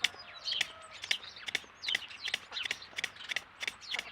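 Birds chirping: a rapid run of short, sharp calls, about four a second, many sliding down in pitch.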